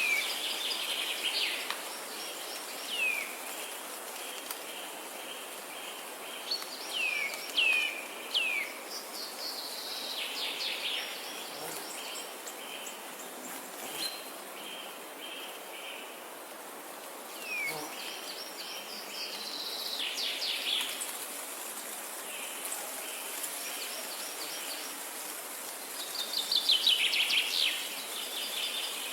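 Songbirds chirping and calling: short downward-sweeping chirps and bursts of fast trills, the loudest trill near the end, over a steady high insect hum.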